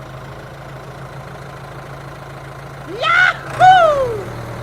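A small motor humming steadily, probably the mini tractor's. About three seconds in, two short, high-pitched vocal cries cut in over it, the first rising in pitch and the second falling.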